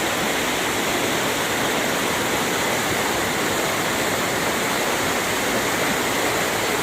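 Swollen river water rushing steadily through a pool, a dense, unbroken sound of churning water. The river is in spate after days of rain and snow.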